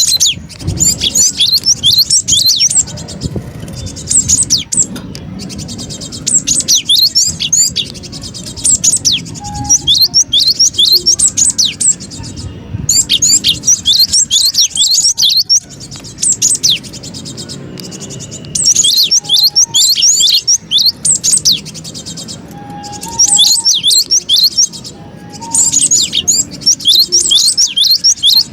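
Cinereous tit (gelatik batu) calling in busy, agitated bursts of rapid, high, sharp notes, each burst lasting a second or two with short pauses between, as in a lure (pikat) recording.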